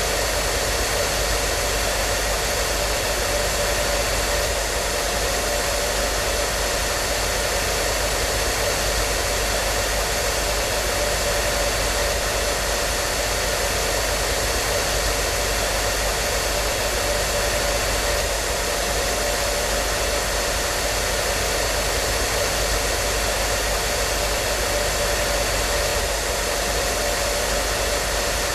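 Hair dryer running steadily, a constant whooshing rush of air with a faint steady whine.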